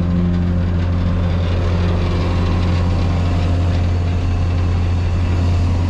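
Semi truck engine and its air blower running with a steady drone, pressurizing a dry bulk tanker to blow cement powder out through the unloading line.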